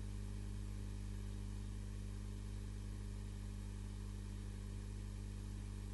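Steady low hum with faint hiss and no other sound: background noise of the recording.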